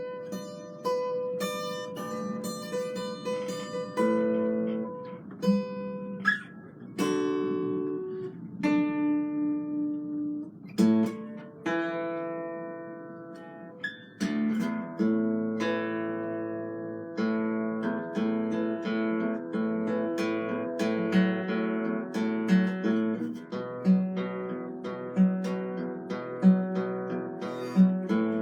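Acoustic guitar played in an improvised passage: single plucked notes that ring and fade, slower around the middle, then fuller strummed chords in the second half.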